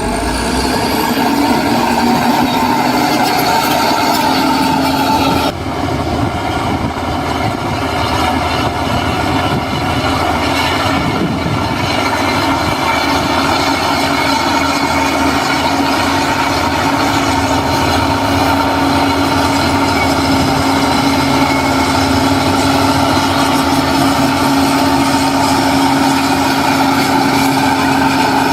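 Heavy diesel earthmoving machinery running steadily, a constant engine drone with a steady whine over it and a brief dip about five seconds in.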